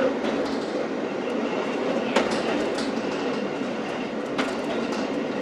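Railway coach running along the track, heard from inside its leading control cab: a steady rumble of wheels on rail with a sharp click about every two seconds.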